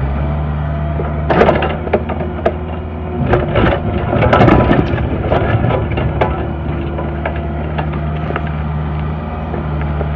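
Mini excavator's diesel engine running steadily while the bucket digs, scraping and crunching through dirt and rock, with clusters of knocks about a second in and again between three and five seconds in.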